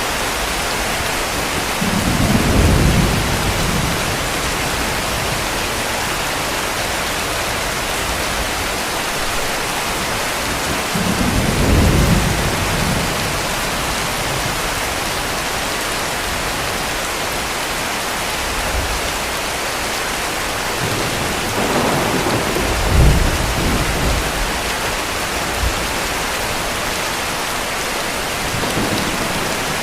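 Steady heavy rain hissing, with low rolls of distant thunder rumbling up three times, the strongest about two thirds of the way through, and a fainter one near the end.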